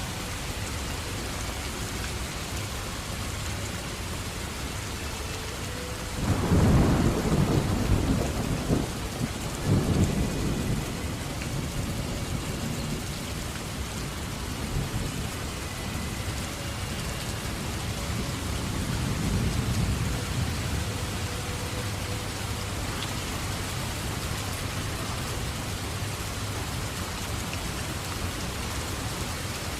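Steady rain falling, with a rumble of thunder that swells in about six seconds in, peaks twice and fades by about eleven seconds; a fainter rumble follows near twenty seconds.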